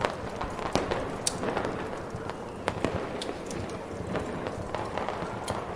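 Fireworks popping and crackling in irregular sharp cracks, a few standing out louder, over a steady rushing snowstorm wind.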